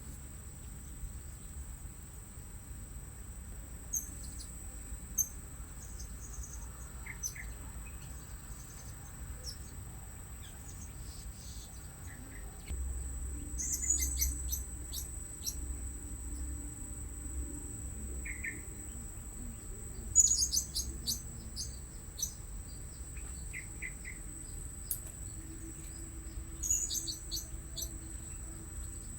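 Blue-crowned hanging parrots giving bursts of quick, very high-pitched chirps, four times over, over a steady high-pitched insect drone.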